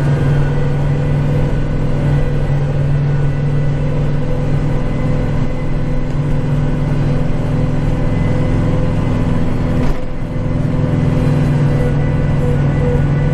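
Kubota tractor engine and rear snowblower running steadily under load, a constant drone, with a brief dip and knock about ten seconds in.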